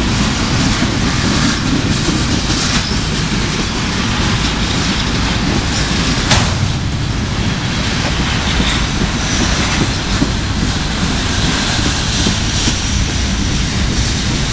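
Freight train cars rolling past at close range: a steady loud rumble of steel wheels on the rails, with clicks over the rail joints and one sharper clank about six seconds in.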